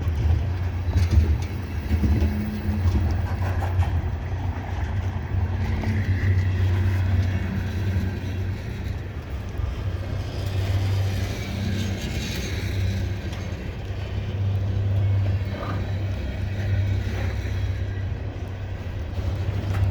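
Diesel locomotives of a loaded coal train running hard in notch, a deep steady engine drone as the train digs in at low speed under heavy load.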